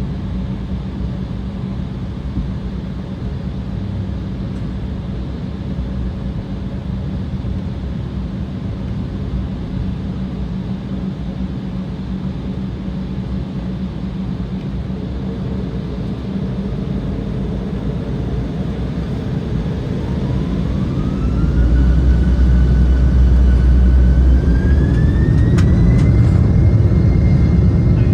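Embraer E190's twin General Electric CF34-10E turbofan engines, heard from inside the cabin. A steady low rumble at low power gives way, about two-thirds of the way in, to the engines spooling up for takeoff. A whine rises in two steps and then holds steady as the rumble grows louder.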